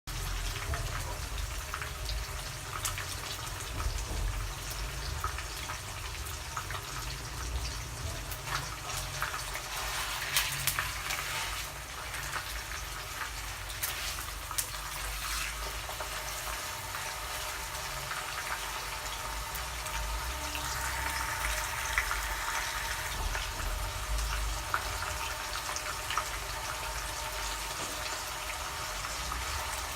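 Pieces of sun-dried cobia frying in hot oil: a steady sizzle with scattered pops and crackles.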